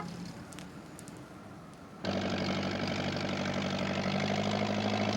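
A motor vehicle's engine running steadily with an even, rhythmic chug, cutting in suddenly about two seconds in.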